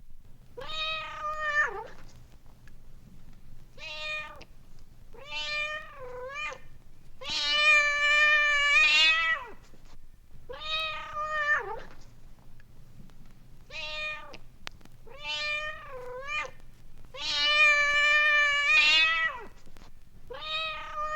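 A domestic cat meowing repeatedly, about nine separate meows, two of them long and drawn out, over a steady low hum from the old vinyl sound-effects record's playback.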